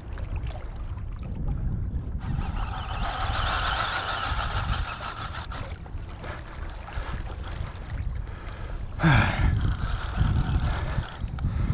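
Wind buffeting the microphone as a steady low rumble, with a rushing hiss from about three to five seconds in and a sudden louder rush about nine seconds in.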